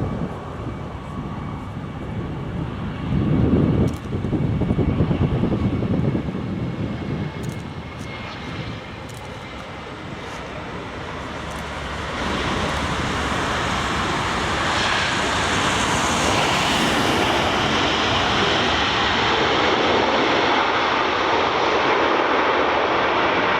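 Jet airliner engines: an uneven low rumble a few seconds in, then a steady, loud rushing engine noise that builds from about halfway and holds.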